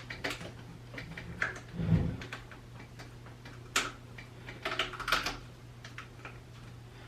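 Handling of new plastic toilet flush-valve parts while the rubber seal is fitted on: scattered light clicks and knocks, with one dull thump about two seconds in, over a faint steady low hum.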